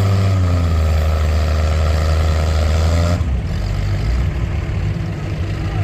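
Antique farm tractor engine running steadily, dipping slightly in pitch just after the start, then dropping off abruptly about three seconds in to a lower, rougher running sound.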